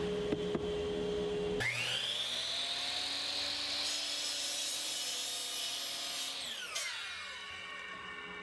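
Electric power saw starting about a second and a half in with a rising whine, cutting through a treated 1x4 board with a loud hiss for a couple of seconds, then spinning down with a falling whine near the end.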